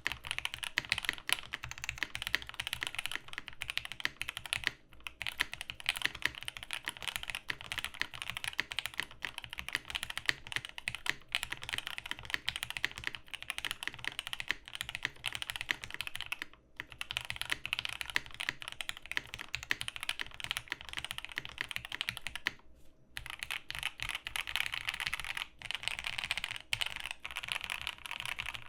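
Steady, fast typing on a RAMA WORKS KARA custom mechanical keyboard with lubed, filmed Snow White switches, GMK Darling keycaps and a PE foam mod. The typing stops briefly a few times, and a faint fan hum runs underneath.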